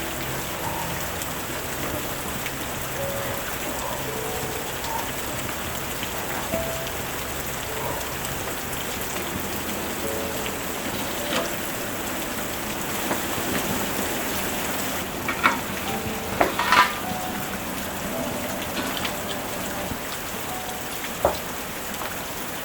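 Steady rainfall, an even hiss of rain on a surface, with a few sharp drip-like ticks and knocks about two-thirds of the way through.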